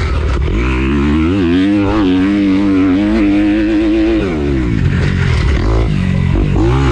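Dirt bike engine running under load as it is ridden round a track, the revs climbing, holding, dropping back about four seconds in and climbing again near the end.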